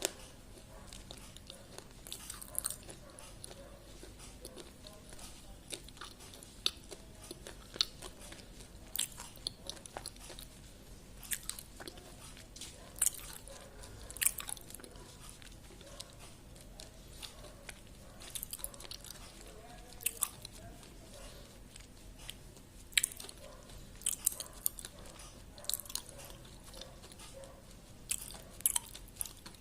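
A person biting and chewing something hard and crunchy, close up: sharp, crisp crunches come irregularly every second or two, with quieter chewing between them.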